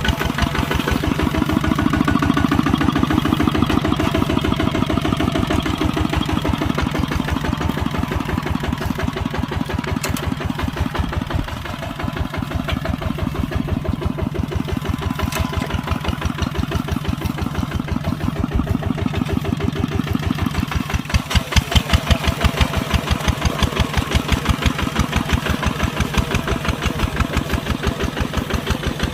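Kubota tractor's diesel engine running with a rapid, even firing beat. It eases off briefly about twelve seconds in and runs louder for a couple of seconds about two-thirds of the way through.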